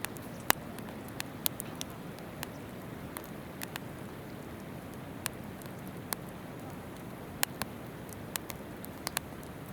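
Wood campfire crackling, with sharp irregular pops, over the steady rush of a river.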